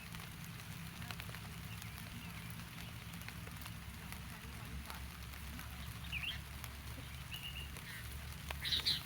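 Steady hiss of rain falling. A few short bird chirps come in about six seconds in, and a louder pair of chirps near the end.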